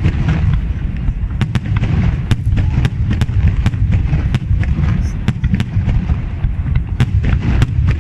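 Fireworks display: a continuous deep booming of shell bursts, with many sharp cracks and pops scattered throughout.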